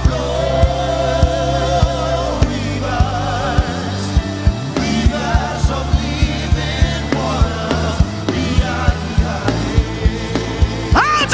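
Live gospel worship music: voices singing long, wavering lines over sustained keyboard and bass chords, with a steady drum beat that quickens about halfway through.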